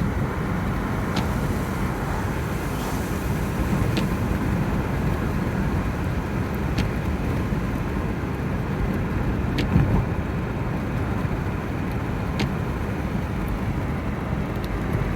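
Steady driving noise heard from inside a car: road and engine rumble, with a light tick about every three seconds.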